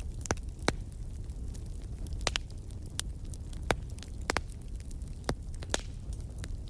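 Wood fire crackling: irregular sharp pops and snaps, a few of them loud, over a low steady rumble.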